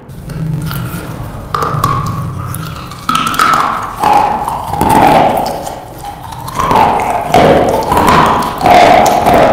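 Close-miked crunching and chewing of a slate pencil, bitten and ground between the teeth, in sharp crunches coming every second or so.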